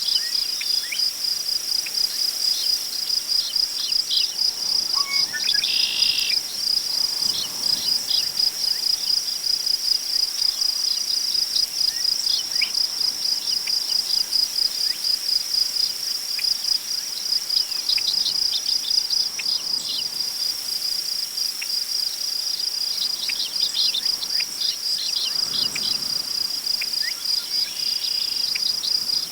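Crickets chirping in a steady, fast-pulsing chorus, with occasional short bird calls, a few about six seconds in and again near the end.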